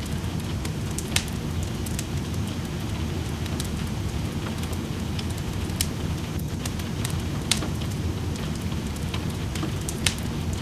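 Wood fire in a fireplace crackling, with a few sharp pops scattered through, over the steady hiss of rain.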